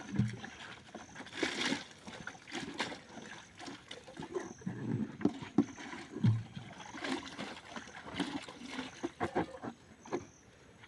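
Dishes and pots being washed by hand in basins: irregular clinking and clattering of utensils with water sloshing.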